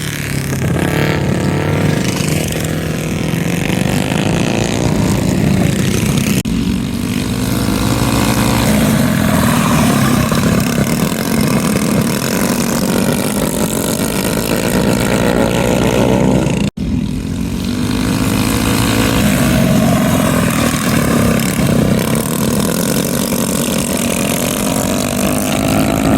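Several mini bikes' small single-cylinder engines racing together, revving up and easing off over and over in overlapping pitches. The sound breaks off abruptly twice.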